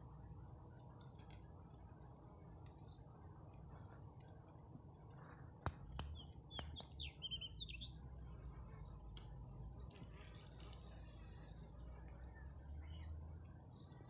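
Small birds chirping faintly, with one warbling phrase of rising and falling notes about halfway through, over a low steady rumble. A few sharp clicks come just before the phrase.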